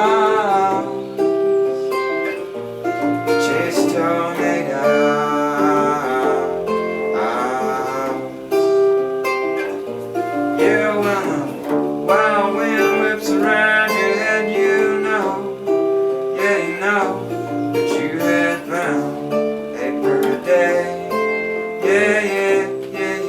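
Live music: acoustic guitar playing with bass accompaniment, an instrumental passage of a song.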